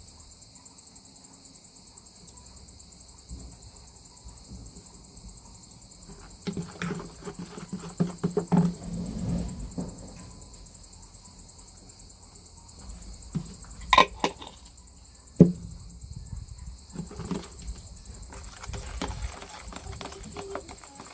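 Crickets chirping steadily in the background, with scattered kitchen handling noises from mixing cake batter: a stretch of scraping and stirring, then a few sharp knocks.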